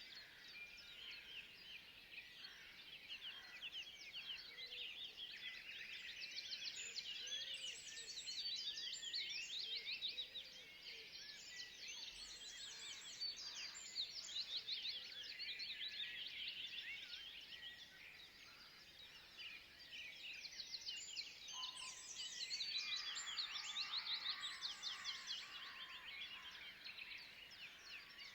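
Faint chorus of woodland birds singing, many quick high chirping notes overlapping continuously, thinning out briefly twice.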